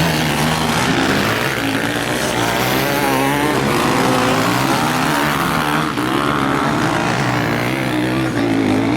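Several motocross bikes' engines revving as they race, their pitch rising and falling as the riders work the throttle.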